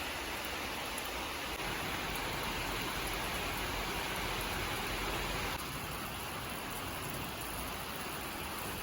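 Steady rain falling, an even hiss of many drops, a little softer about two-thirds of the way in.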